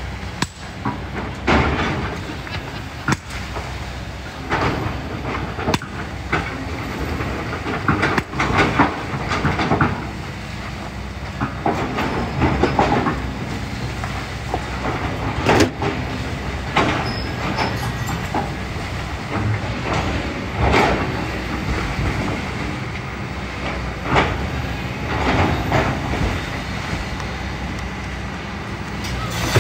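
Kobelco SK200 excavator's diesel engine running steadily under load, with the steel bucket scraping and knocking against rocks and gravel many times as it digs sand.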